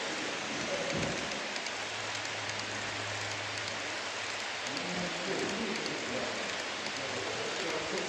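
Model trains running on a layout: a steady rolling hiss of wheels on track, with a low hum for a couple of seconds in the middle.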